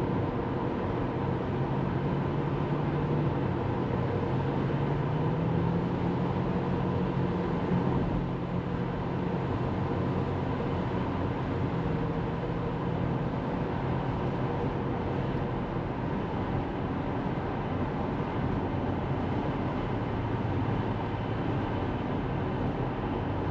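Tesla Model 3 driving at speed: steady tyre and road noise, with a low hum that rises in pitch a few seconds in and drops back about eight seconds in.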